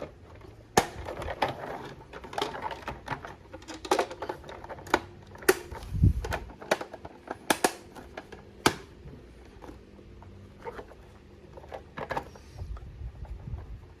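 Plastic toy van being handled, with irregular sharp clicks and taps of hard plastic parts and a dull thump about six seconds in.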